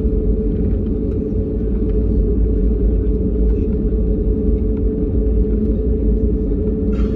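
Jet airliner engine noise: a steady low rumble with a constant hum running through it.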